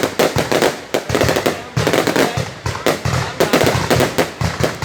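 Fireworks and firecrackers going off in a rapid, continuous string of loud cracks and bangs, several a second.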